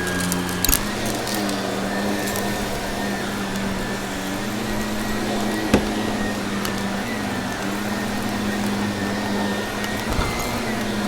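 Vacuum cleaner motor running with a steady hum and airflow rush, with a couple of sharp clicks from grit being sucked up.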